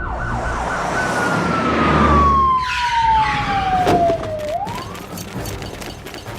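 Police siren sound effect: one long wail falling slowly in pitch, then turning upward again about two-thirds of the way through, over a loud rushing noise.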